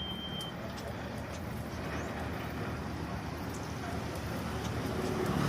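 Steady low rumble of road-vehicle noise, growing slightly louder toward the end.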